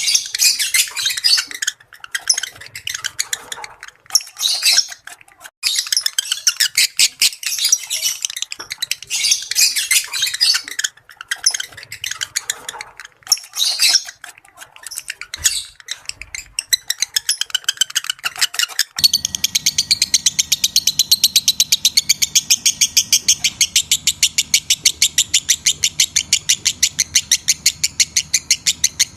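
Lovebirds in breeding condition chattering and squawking in dense, irregular high-pitched runs. About two-thirds of the way in, the recording cuts to fast, evenly repeated chirping over a steady low hum.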